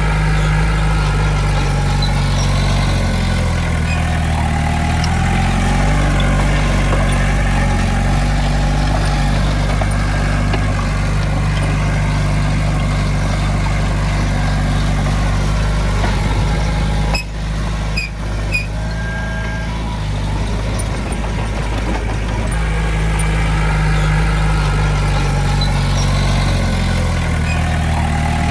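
Heavy-equipment diesel engine running under work, its pitch rising and falling as throttle and load change. About two-thirds of the way through there is a brief dip with a few clicks and a short steady tone.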